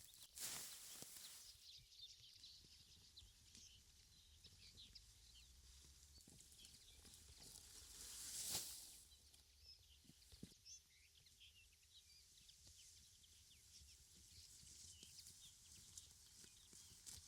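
Near silence outdoors: faint scattered small ticks and rustles, with two brief swells of rustling noise, one just after the start and a louder one about eight seconds in.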